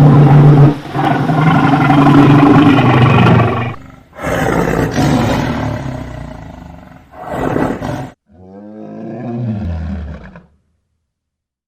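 Lion roaring: several long, loud roars, the last one quieter and falling in pitch as it fades out about ten seconds in.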